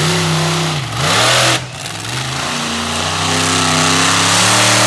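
Monster truck engine revving hard: its pitch drops briefly about a second in as the throttle lifts, then climbs and holds at high revs.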